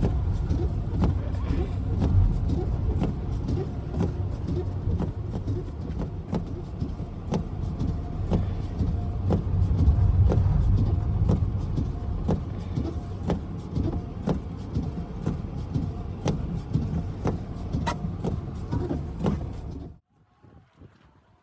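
Motor vehicle driving: a steady low rumble with frequent small clicks and knocks, cutting off abruptly near the end.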